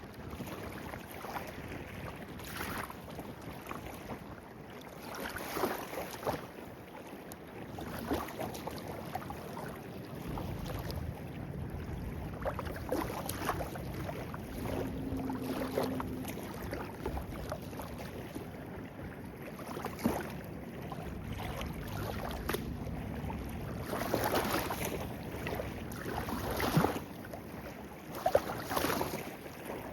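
Small stream of clear water flowing over rocks, babbling steadily with irregular gurgles and splashes that grow louder near the end.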